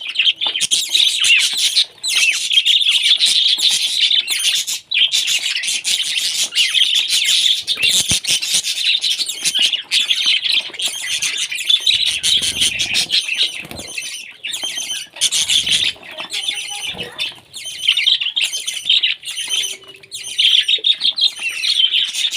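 Parrots chattering and squawking without a break, a dense run of rapid, shrill calls.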